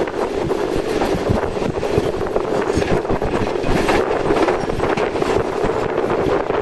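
Moving Karachi Express passenger train running along the track: a steady, loud rumble and rattle of the carriage.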